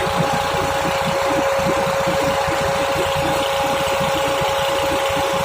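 Tractor engine running steadily, with an even, high whine held over it.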